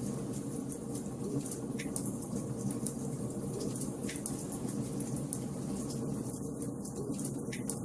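Wood fire burning in a fireplace: a steady low rush of flames with frequent small, sharp crackles and pops of the burning logs.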